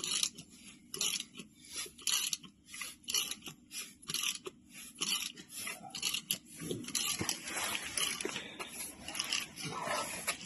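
Short rustling noises repeated in quick succession, about two to three a second, turning denser and more irregular about six seconds in.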